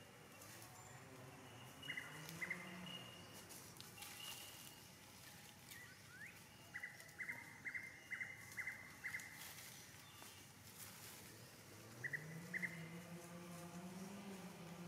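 Faint forest ambience: a bird repeats a short chirp, twice, then in a run of about six, then twice more, while dry leaves crackle as macaques shift about on the leaf litter. A low wavering hum rises in near the end.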